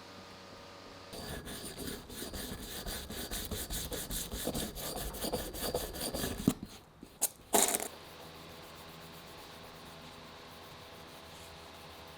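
Quick back-and-forth abrading strokes on an old steel bicycle crankset, stripping its paint by hand, growing louder over about five seconds. A sharp knock and a short, louder scrape follow, then the rubbing stops.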